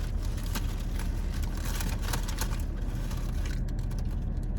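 Steady low hum of a car idling, heard from inside the cabin, with scattered small clicks and crinkles of food wrappers and eating.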